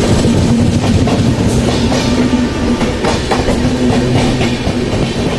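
Passenger train running at speed, its wheels clacking over rail joints over a loud, steady rumble with a low hum that comes and goes.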